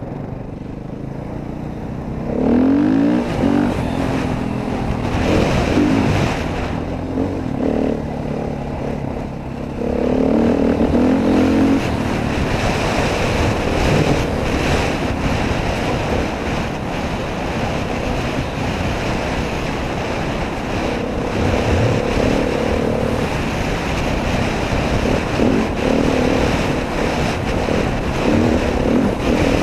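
Dirt bike engine running and revving up and down while riding, with heavy wind rush over the microphone; the engine note climbs about three seconds in and again around ten seconds.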